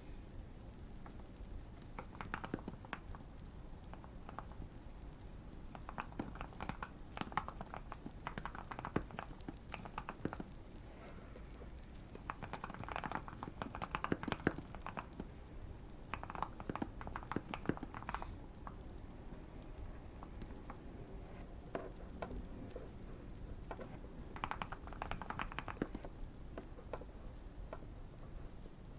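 Typing on a Keychron Q1 mechanical keyboard, modded with tape and PE foam and fitted with Fierce Girl switches. It comes in bursts of rapid keystrokes a few seconds long with pauses between, over a light crackle of a fire.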